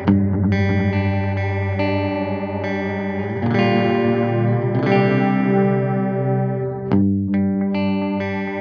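Electric guitar played through an analog bucket-brigade style delay pedal: chords and single notes ringing into their own repeating echoes, with a fresh strum about seven seconds in.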